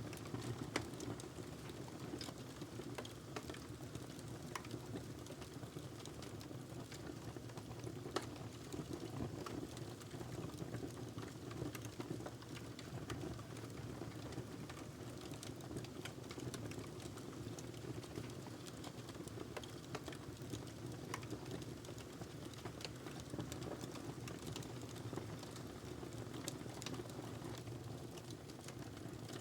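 Log fire burning steadily in a fireplace, with irregular small crackles and pops over a low, even hiss of flames.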